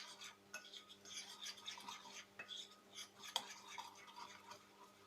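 A spoon stirring a thick yogurt and chickpea-flour batter in a mixing bowl: faint, irregular scrapes and light clicks against the bowl.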